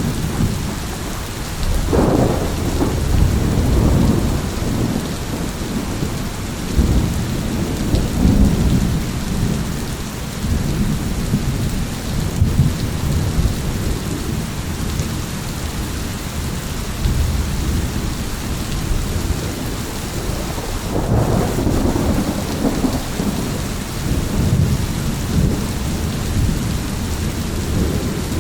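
Steady heavy rain with rolling thunder. A sharp thunderclap about two seconds in rumbles on for several seconds, and a second roll of thunder builds about three quarters of the way through.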